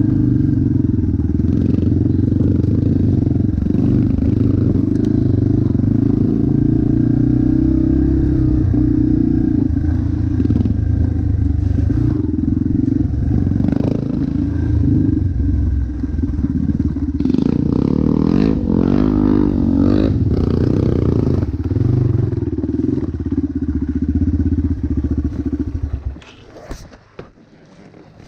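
Motocross bike engine running, its pitch rising and falling with throttle blips a little past the middle. The engine sound falls away sharply near the end.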